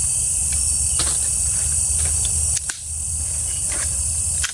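Night insects, crickets, chirring in a steady high-pitched chorus, with a few short clicks and knocks.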